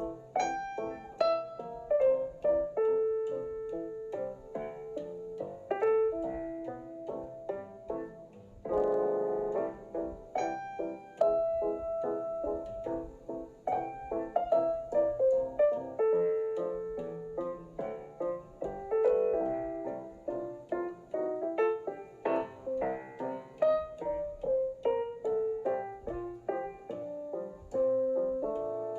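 Background piano music, a melody of quick single notes over chords.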